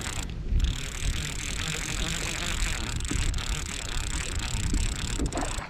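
A fishing reel being wound in steadily as a hooked pollack is brought up, over a steady low rumble of wind and boat noise.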